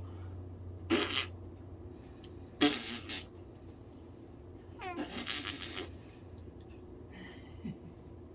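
Three short fart-like noises from a pet animal, about 1, 2.6 and 5 seconds in; the third is the longest.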